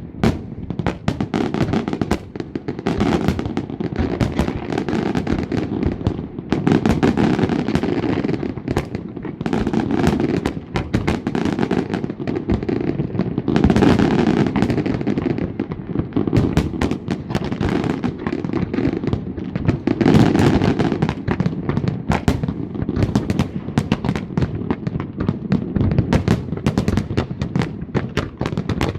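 Large aerial fireworks display: a dense, continuous barrage of bangs and crackles that swells louder in waves.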